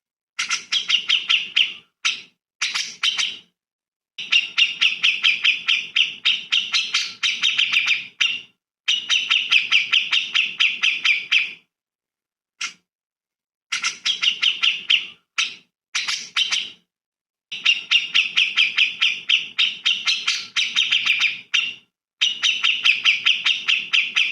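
Recorded songbird song: bursts of fast, dense chattering trills, each a second to a few seconds long, separated by abrupt silent gaps, as in an edited loop.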